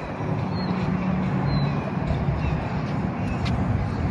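Strong wind buffeting the microphone: a steady rushing, rumbling noise, with a few faint short high chirps over it.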